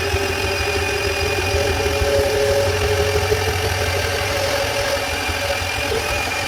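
Milwaukee M12 2429-20 cordless compact bandsaw running steadily under load, its motor whining as the blade cuts through schedule 40 pipe.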